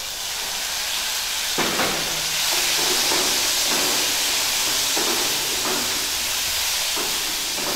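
Chopped onion and tomato sizzling in hot oil in a kadai as they are stirred. The hiss is steady, swelling about a second and a half in.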